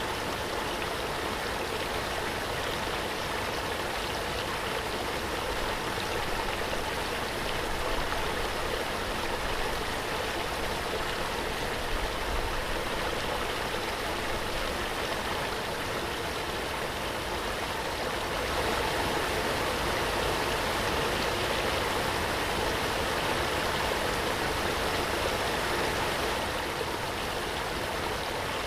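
Waterfall: water falling and rushing in a steady, even roar, swelling slightly about two-thirds of the way through.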